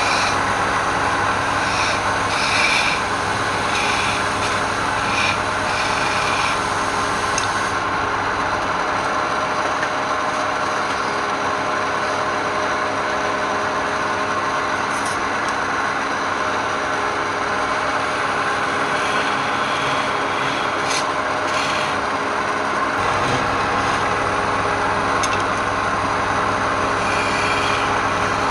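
Wood lathe motor running steadily while a turning tool scrapes and cuts the spinning wood. Rougher bursts of cutting come and go during the first several seconds and again near the end.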